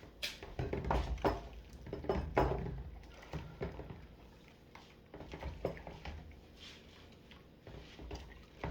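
Dishes being hand-washed in a tub of soapy water: water sloshing and dishes clattering at an uneven pace, busiest in the first few seconds.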